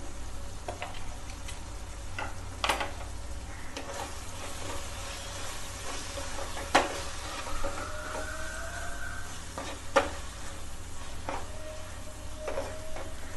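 Onion-tomato masala with spice powders sizzling in a frying pan while a spoon stirs it, with a steady frying hiss and the spoon knocking against the pan now and then, most sharply about seven and ten seconds in.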